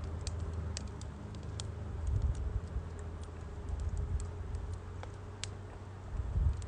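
Firewood crackling in a Uniflame Nature Stove Large fire pit: sparse, irregular sharp snaps and pops over a low rumble.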